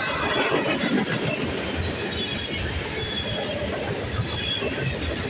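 Freight train tank cars rolling past close by, their steel wheels running on the rails in a steady rumble, with brief high wheel squeals now and then.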